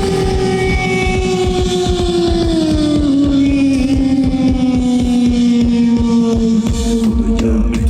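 A live rock band ends a song. One held note glides slowly down in pitch by about an octave over a fast, continuous drum roll.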